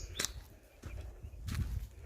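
Footsteps and scuffs on a walking path, a few sharp steps over an uneven low rumble.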